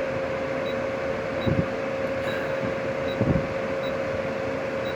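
LG 12,000 BTU portable air conditioner running on its fan, a steady whoosh with a steady hum, before its compressor has kicked on. Two soft knocks come about a second and a half and about three seconds in.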